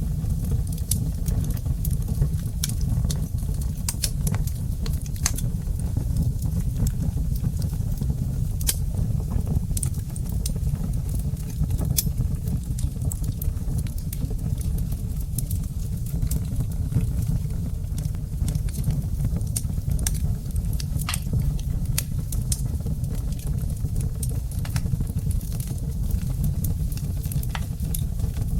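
Wood fire burning, with a steady low rumble and many irregular sharp crackles and pops from the burning logs.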